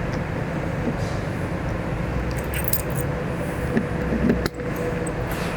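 Light metallic clinking and rattling, a few short clicks in the middle, over a steady background hum.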